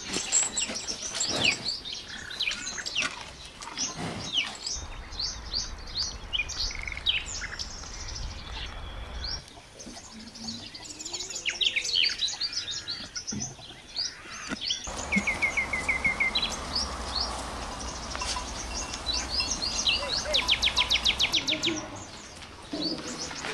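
Small birds chirping: many short, high calls scattered throughout, with a fast trill of repeated notes near the end.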